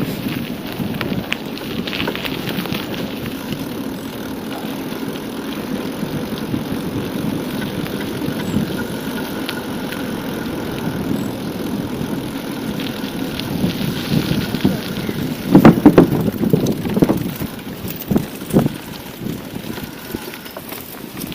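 Steady wind rush and tyre noise from a bicycle moving at speed, picked up by the camera's microphone. A cluster of loud knocks about three-quarters of the way through, and another a little after.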